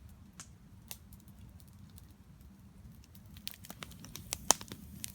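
Wood campfire crackling: a low steady rumble with scattered sharp pops, coming more often in the second half, the loudest about four and a half seconds in.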